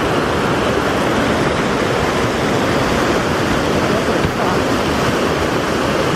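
Snowmelt stream rushing out from under snow and ice, a loud, steady flow of water.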